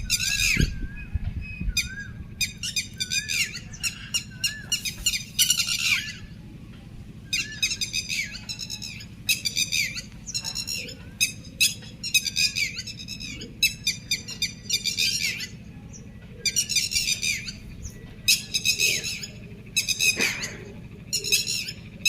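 Many birds calling in short, harsh, repeated bursts, with overlapping calls, as a flock gathers to roost in the evening. A steady low background hum lies underneath.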